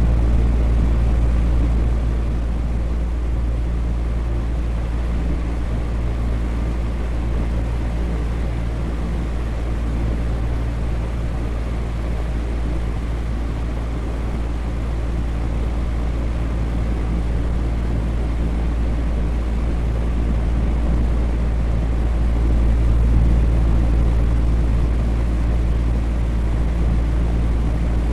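Electric fan running steadily: an even rushing noise over a low hum with a few steady low tones, easing and swelling slightly in loudness.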